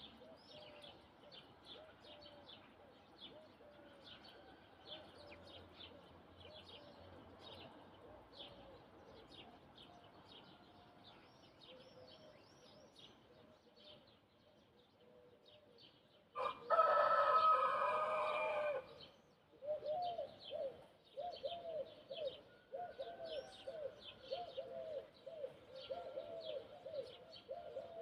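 A rooster crows once, a single long crow about two-thirds of the way through, and it is the loudest sound. Small birds chirp throughout, and after the crow comes a quick run of repeated low calls from other birds.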